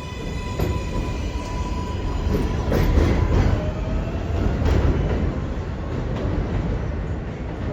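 R188 subway train running past with the high whine of its electric motors and a heavy rumble, with wheels clacking over rail joints several times. The rumble is loudest about three seconds in, and the whine gives way to a lower tone about then.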